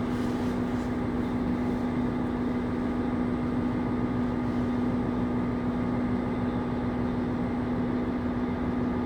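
KiHa 25 diesel railcar heard from inside the cabin: a steady engine drone with a constant low hum running evenly throughout.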